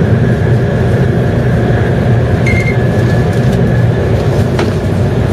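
Cabin noise of an N700 series Shinkansen running at about 170 to 200 km/h: a loud, steady rumble with a faint high tone over it. A brief high tone sounds about halfway through, and a click comes near the end.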